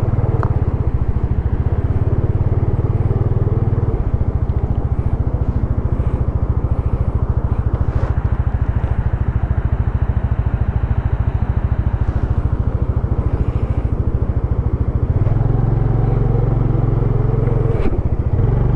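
Yamaha PG-1's single-cylinder engine running under way as the motorbike is ridden, its note shifting about four seconds in and again near the end.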